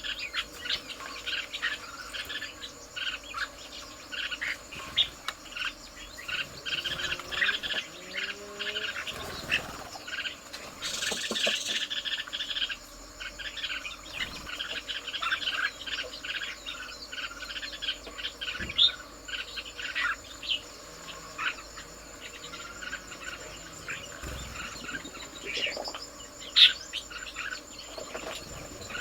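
Garden ambience of many birds chirping and calling in short, busy notes over a steady high-pitched insect drone.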